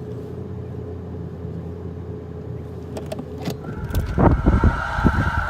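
Car engine and road hum, heard from inside the cabin, steady and low. About four seconds in, a louder, uneven engine rumble sets in, along with a steady high tone.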